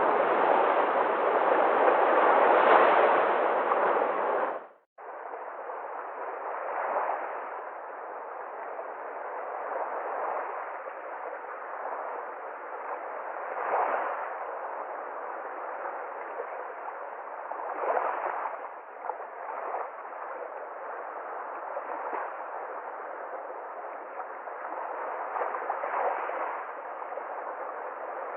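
Sea waves. For the first five seconds the surf is loud and continuous, then it cuts off abruptly and gives way to softer waves that swell and break every few seconds.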